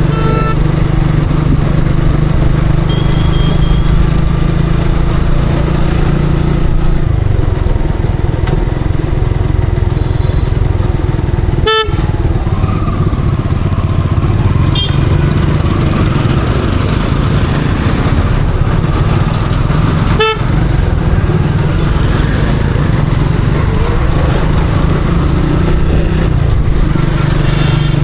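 Motorcycle engine running steadily while riding through city traffic, its hum easing off for a while partway through and picking up again. Short vehicle horn toots sound a few times, two of them near the middle about eight seconds apart.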